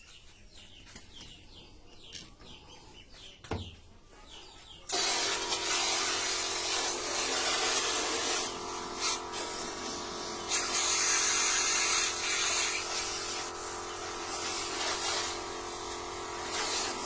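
A pressure-washer pump switches on about five seconds in and runs with a steady motor hum under a loud hiss of water spray, the hiss growing brighter for a couple of seconds midway. Before it, faint bird chirps and a single knock.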